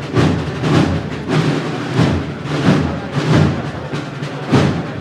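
Spanish Holy Week processional march (marcha procesional) played by a wind band: drum strokes land about every 0.6 seconds over held low notes from the band.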